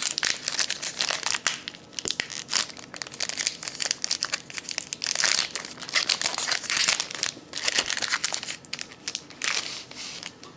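Plastic packaging of a trading-card box being torn open and crumpled: a dense, irregular crinkling with sharp crackles that dies away near the end.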